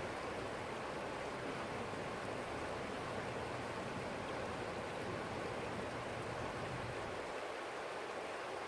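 Small stream flowing steadily over its bed, an even rushing and babbling of water. A faint low rumble underneath drops away about seven seconds in.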